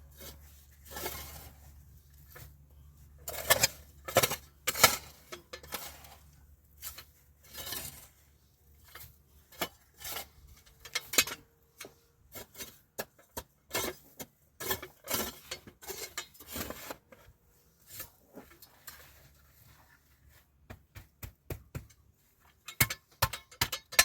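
Irregular sharp clinks and knocks of hard objects being handled, some close together and some spaced out, with a short quicker run near the end.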